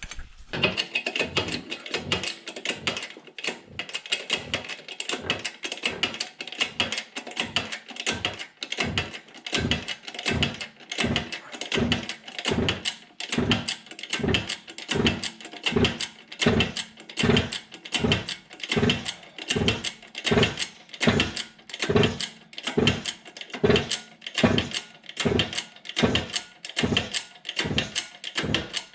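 Shop press being pumped stroke after stroke, about three strokes every two seconds, pressing a new steel bushing, coated with retaining compound, into a tractor connecting rod's small end.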